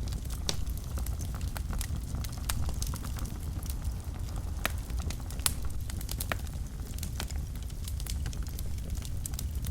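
Wood fire burning in a fireplace: a steady low rumble of flames under frequent sharp, irregular crackles and pops.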